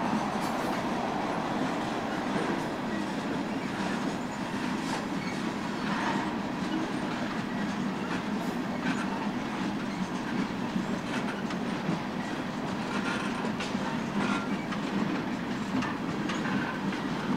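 BNSF freight train's cars rolling past, a steady rumble with the wheels clicking irregularly over the rail joints.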